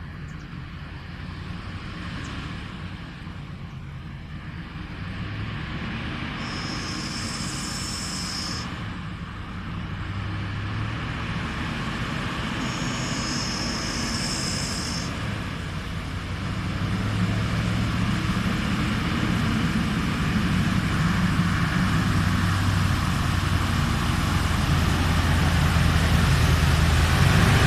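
Heavy diesel engine of an XCMG XDA40 articulated dump truck running, growing steadily louder as the truck draws near. Twice in the first half a high-pitched buzz is heard for about two seconds.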